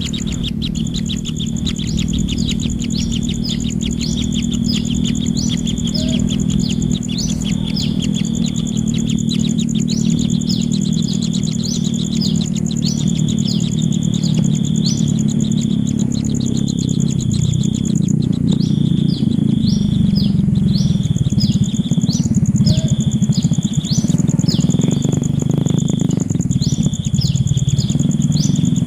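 Kingfisher chicks chirping in short, high, quickly repeated calls, about two a second, over a steady high whine and a loud low rumble.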